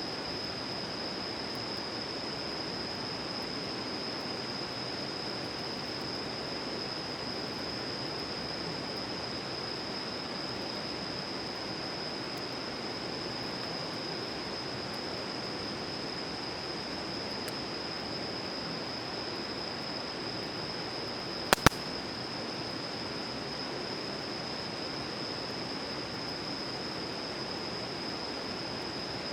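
Steady rushing outdoor noise with a constant high-pitched whine over it. About two-thirds through comes one sharp double crack, like wood popping in a campfire.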